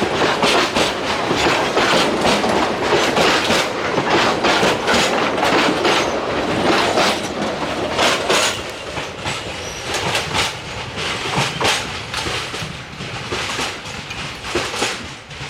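Narrow-gauge freight train wagons rolling along the track, their wheels clacking over the rail joints in a rapid, irregular clatter that fades over the second half as the train moves away.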